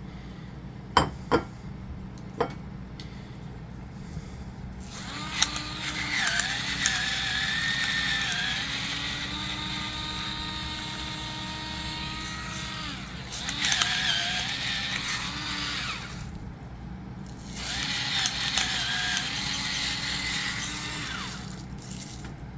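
Battery-powered electric pepper/salt grinder running in three bursts, a long one of about eight seconds and then two shorter ones, its small motor whining steadily over the rasp of grinding. A few sharp clicks come before the first burst.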